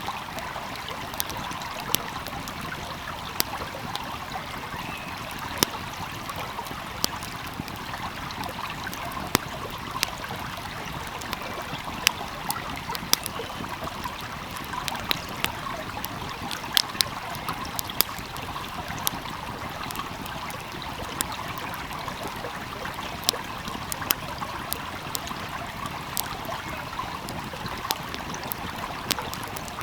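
Wood fire crackling with frequent irregular sharp pops over the steady rush of a flowing stream.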